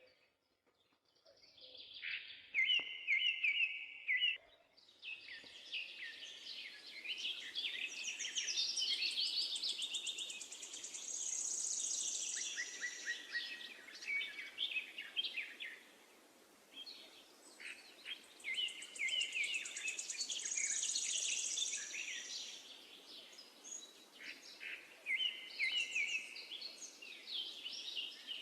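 Songbirds singing, a dense chorus of rapid chirps and trills that starts about two seconds in and carries on with brief lulls, over a faint steady background hiss.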